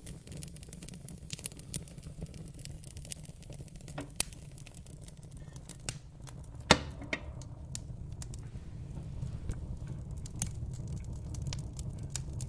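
Wood fire crackling in a fireplace: a steady low rumble of flames under a stream of small pops and snaps, with a louder pop about four seconds in and the loudest just past halfway.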